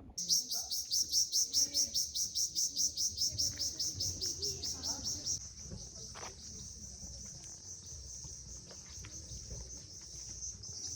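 An insect shrilling, high-pitched: rapid pulses about six a second for roughly five seconds, then a steady unbroken trill.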